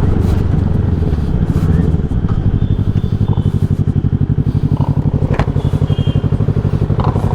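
150 cc motorcycle engine running at a steady speed, with an even throb that grows more regular after a couple of seconds.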